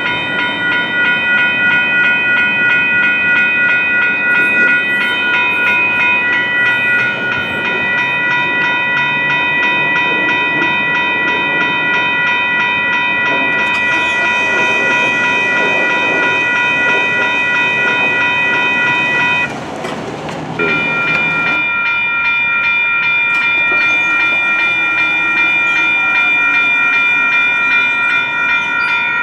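Railroad grade-crossing warning bells ringing steadily, a fast run of strikes merging into a continuous ring of several pitches. Under it are the rumble and wheel clatter of a passing train. The ringing drops out for about a second roughly two-thirds of the way through, then resumes.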